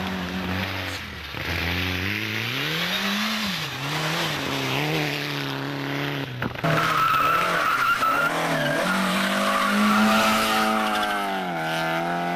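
Rally car engine revving up and down through gear changes, with tyres skidding. About two-thirds of the way in the sound changes abruptly to an engine held at high revs with a steady tyre squeal.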